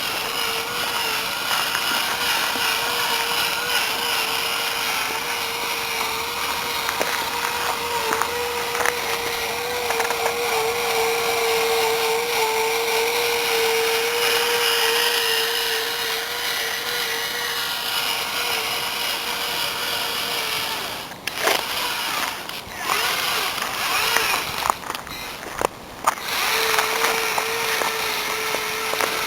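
Radio-controlled trial truck's drive motor and gearbox whining with a steady, slightly wavering pitch. The whine stops about 21 seconds in, gives way to a few short spurts and clicks, then resumes steadily near the end.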